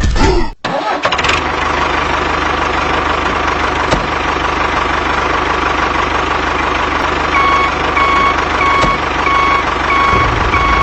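A small engine, likely the homemade mini tractor's, starts and runs steadily with a pulsing low rumble. From about two-thirds of the way in, a beeping tone repeats about every 0.7 seconds.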